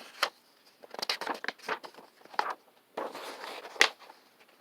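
Paper rustling and crackling from a picture book being handled as its pages are turned: a string of short, sharp crinkles and rustles, with one louder snap of paper near the end.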